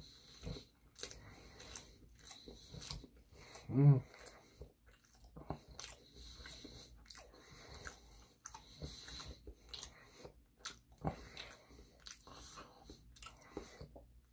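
A person chewing sushi close to the microphone: a string of soft, wet mouth clicks and smacks. About four seconds in there is one brief hum from the throat.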